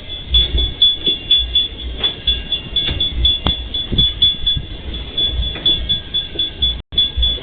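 Empty freight train's wagons rolling through a level crossing, wheels clattering and clanking rhythmically over the rail joints. A level-crossing warning signal sounds over it as a rapid high-pitched pulsing. The sound cuts out for a moment near the end.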